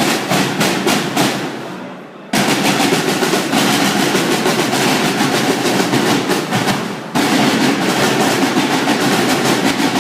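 A group of drummers playing: a few hits dying away, then about two seconds in a sudden loud, fast drum roll that breaks off briefly near the seven-second mark and picks up again.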